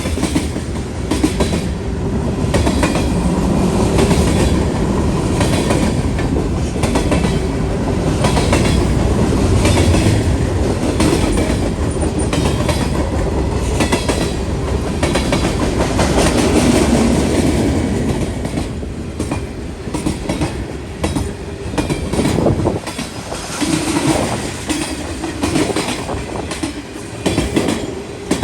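Freight cars of a long CSX freight train rolling past, steel wheels clicking rhythmically over rail joints above a steady rumble. The sound eases somewhat and becomes more uneven about two-thirds of the way through.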